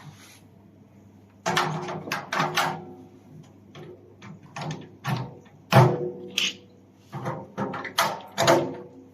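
Parts of a steel tent stove being handled: a series of clanks and knocks starting about a second and a half in, several with a short metallic ring, the loudest near the middle.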